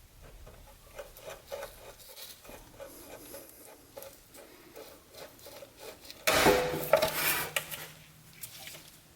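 Small metallic ticks and clinks of hand tools and parts being worked on the car's brake lines, then about six seconds in a loud scraping rasp of metal lasting over a second.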